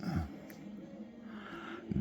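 Quiet pause with low room tone and a small click about half a second in.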